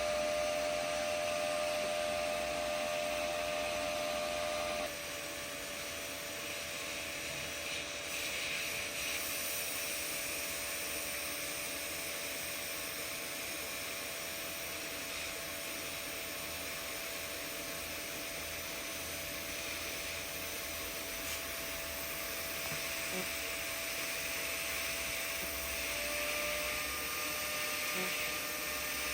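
TIG welding arc running at about 140 amps on a pipe hot pass: a steady electrical hum and hiss, its tone shifting slightly about five seconds in and again near the end.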